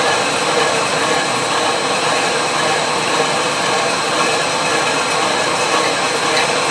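Milling machine running steadily, taking a cutting pass along a steel wood-chipper blade.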